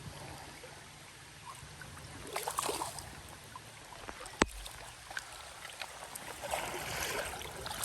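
Creek water trickling and splashing in steady rain, with brief louder splashes about two and a half seconds in and again near the end. A single sharp knock comes midway.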